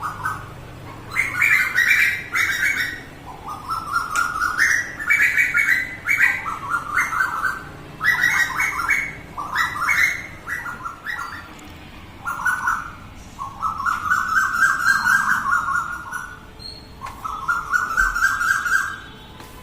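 Quails squabbling: bouts of rapid, stuttering chirps, each lasting a second or two, repeating with short pauses.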